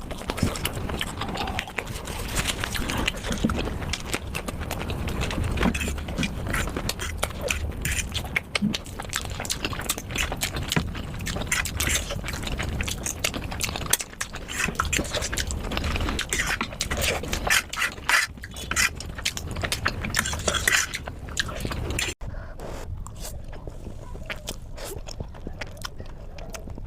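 Close-up eating sounds: a person chewing and biting food with many quick, irregular wet clicks and smacks. About 22 seconds in it cuts abruptly to a quieter stretch of eating from another clip.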